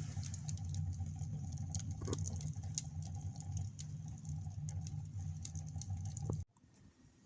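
Wood fire burning in a sauna stove, with scattered crackles and pops over a low steady rumble. It cuts off abruptly about six and a half seconds in.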